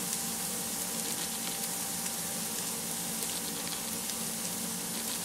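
Crushed small onions and garlic sizzling steadily in hot oil in a stainless steel frying pan, with faint light crackles.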